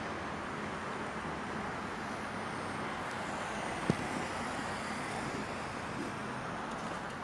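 Evening residential-street ambience: a steady hum of distant traffic, with one sharp click or knock about four seconds in.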